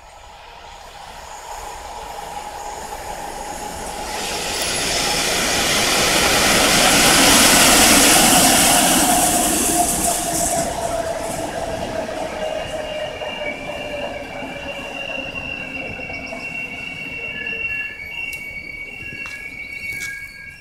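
Polregio "Tur" double-deck regional electric train approaching and passing close by. It is loudest about 7 to 9 seconds in, with a whine falling in pitch as it goes past. In the second half, high steady squeals from the wheels and brakes come in as it slows into the station, with a few sharp clicks near the end.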